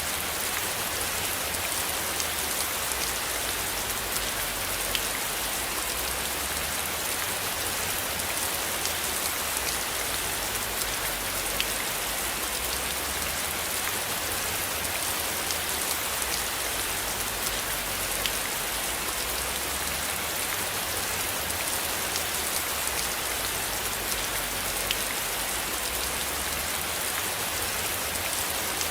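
Steady rain falling, an even hiss with scattered louder drop ticks. A low rumble swells and fades underneath.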